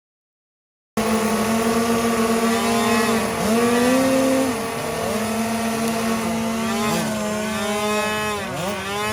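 Several dirt bike engines running together: one holds a steady pitch while others rev up and down and pass by, their pitches rising and falling. It starts suddenly about a second in.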